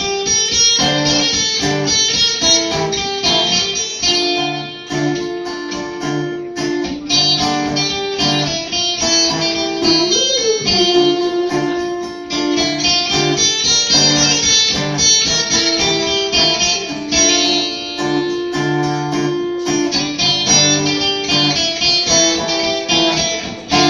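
Live rock band playing the song's instrumental break, with a guitar leading in quick picked notes over a steady bass part; about ten seconds in, one guitar note is bent up and back down.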